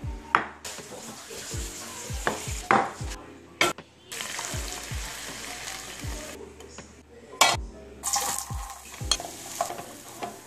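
Chicken liver sizzling in oil in a frying pan as metal tongs turn it, with sharp clacks of the utensils against the pan. Near the end, diced radish and carrot are stirred with a wooden spatula in the pan.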